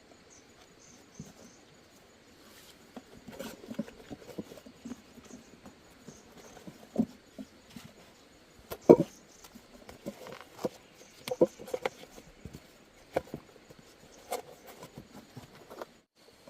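Irregular clicks, knocks and scrapes of hand work on a bicycle wheel and tools, sparse at first and busier after a few seconds, with the loudest knock about nine seconds in.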